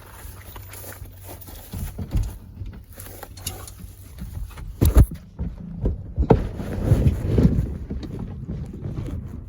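Wind buffeting the microphone, with knocks and rattles as a truck seat is pushed forward; a sharp knock about five seconds in and another just after six seconds.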